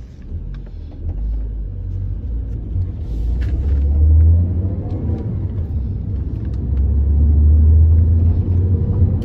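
Mercedes B 170's 1.7-litre four-cylinder petrol engine heard from inside the cabin as the car pulls away under acceleration, with a low rumble. The sound builds twice, falling back briefly with each gear change.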